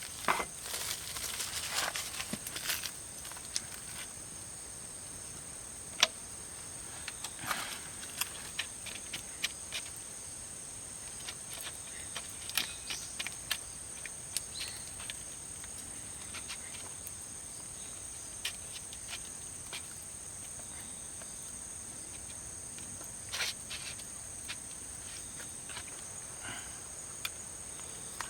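Steady high-pitched insect chorus, with scattered clicks and knocks, more of them in the first few seconds.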